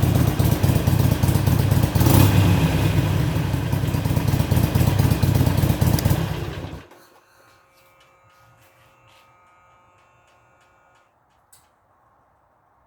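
2014 Harley-Davidson Iron 883's air-cooled V-twin idling warm through its stock exhaust at about 900 to 1000 rpm, briefly louder about two seconds in. The engine is switched off about six and a half seconds in, leaving a faint hum and a few faint clicks.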